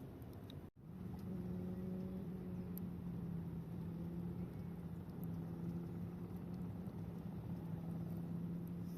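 Campfire burning, with a few faint crackles over a low rumble and a steady low mechanical hum. The sound drops out for an instant just under a second in, then resumes.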